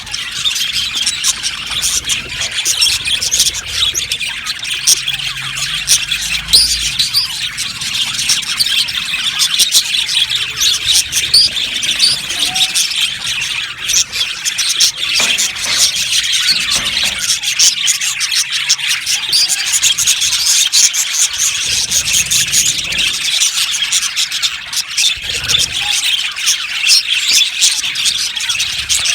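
A flock of budgerigars chirping and warbling together in an aviary, a dense continuous chatter of many overlapping high-pitched calls.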